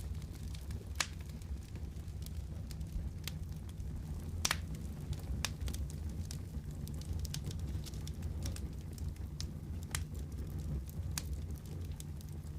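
Wood fire crackling in a fireplace: a steady low rumble of the flames with irregular sharp pops, the loudest about four and a half seconds in.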